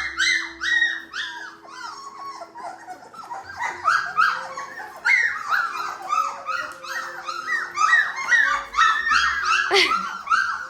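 A litter of three-week-old Labrador retriever puppies whining and squealing, many short high-pitched cries overlapping several times a second; the puppies are crying for their mother, who has left them.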